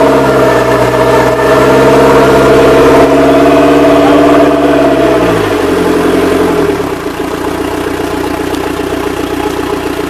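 Engine of a Nissan Wing Fisher 26 boat running steadily at raised revs, then slowing down about five seconds in and settling to a quieter, lower idle.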